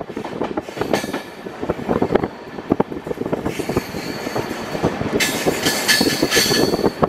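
Passenger train coach running down a ghat gradient: wheels clattering unevenly over the rails, with a high-pitched screech for about a second and a half, starting about five seconds in.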